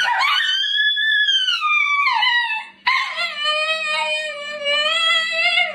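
A dog howling: two long drawn-out howls, the first rising and then sliding down in pitch, the second held fairly steady.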